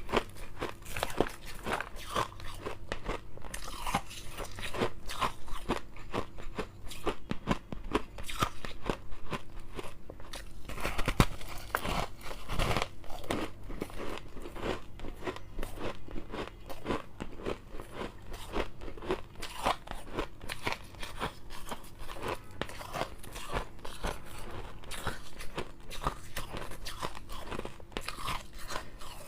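Close-up chewing and crunching of refrozen shave ice, a steady run of many small, irregular crackles and crunches as the compacted ice breaks between the teeth.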